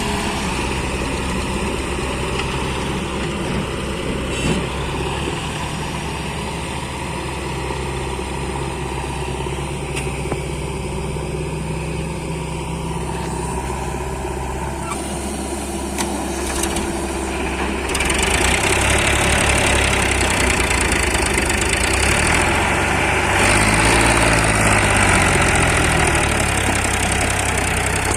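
Heavy diesel engine idling steadily, then running harder and louder from about two-thirds of the way in, with a brief rise and fall in engine speed near the end.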